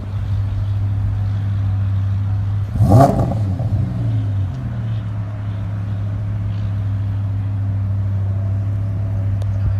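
A car engine running steadily with a low hum, revving briefly about three seconds in.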